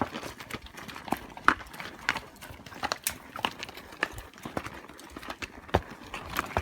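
Irregular hard clicks and clatters, a few a second, some with a brief ring.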